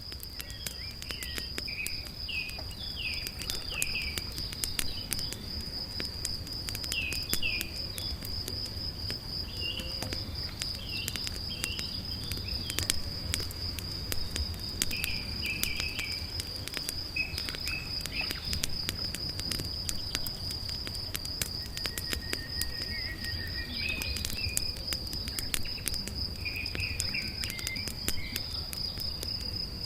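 A cricket's steady high trill runs unbroken throughout, with scattered short bird chirps and frequent sharp crackles from a campfire.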